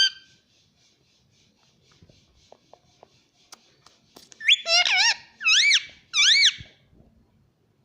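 Indian ringneck parrot giving a short run of loud, squeaky calls, each rising and then falling in pitch, about four and a half seconds in, after some faint chatter and small clicks.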